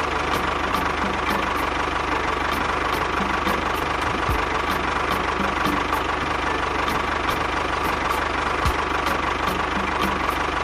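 Steady engine running with an even knock about three times a second, the running sound of a DIY mini tractor pulling a roller.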